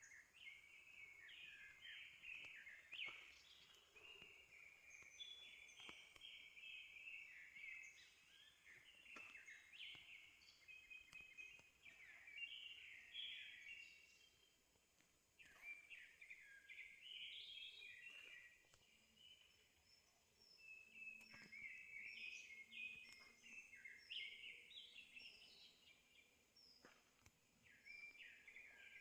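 Faint birdsong: rapid, tumbling chirps and twitters in a near-continuous stream, with a couple of brief lulls.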